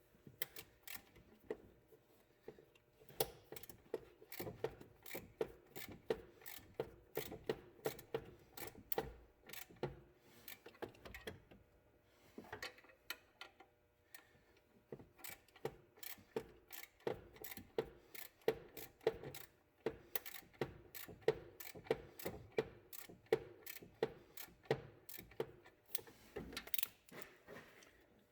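Socket ratchet clicking in steady strokes of several clicks a second, with a few short pauses, as it turns the alternator belt tensioner screw to tighten the belt.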